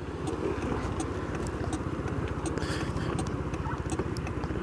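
Motorcycle engine idling at a standstill, with a steady, even beat of low pulses.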